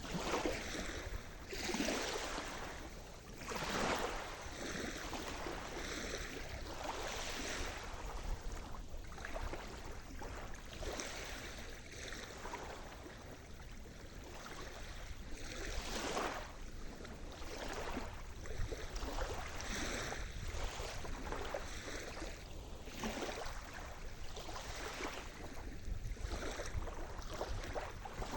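Sea surf: waves breaking and washing on the shore, swelling in repeated surges over a steady low rumble.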